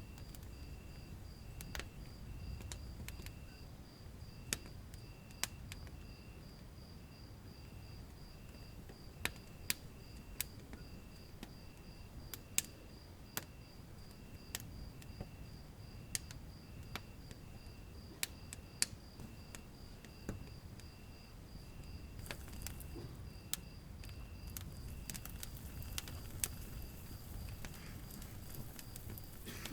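Wood fire burning in a fireplace: irregular sharp crackles and pops, the loudest sounds, over a low steady rumble of the flames. A faint high chirping repeats steadily a few times a second underneath.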